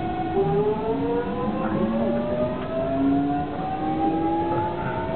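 Traction motors and VVVF inverter of a JR 373 series electric train whining as it accelerates: several tones rise together steadily in pitch.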